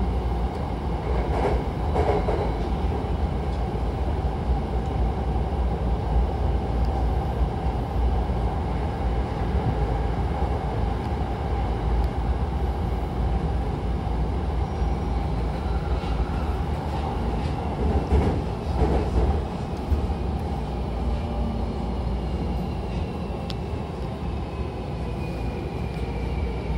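Hankyu electric commuter train heard from inside the car while running: steady rumble of wheels on rail with a constant motor hum, and a few knocks from the track. Over the last few seconds a whine falls in pitch as the train brakes into a station.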